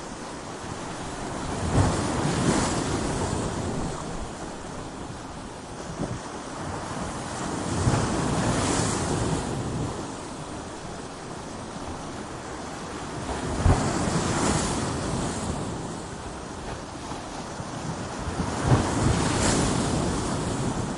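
Ocean waves breaking against coastal rocks: four surges about six seconds apart, each opening with a sharp crash and washing out over a few seconds, over a steady rush of surf.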